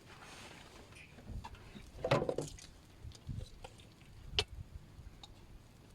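Scattered clinks and knocks of dishes and utensils during a meal. The loudest is a cluster about two seconds in, with a sharp click a little past four seconds.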